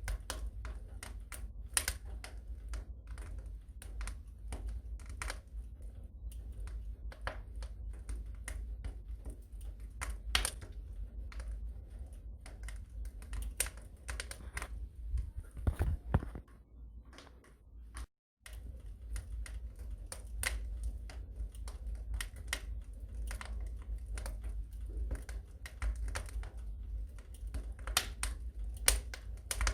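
Wood fire in a fireplace crackling: irregular sharp pops and snaps over a low steady rumble. The sound cuts out for a moment a little past halfway.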